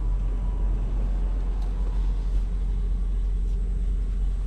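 Steady low rumble of a parked semi truck's idling engine, heard from inside the cab.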